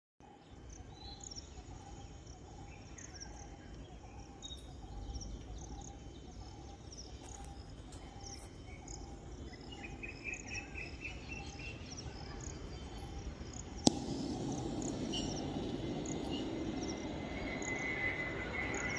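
Insects trilling and small birds chirping repeatedly. There is one sharp click about fourteen seconds in, after which the background noise gets louder.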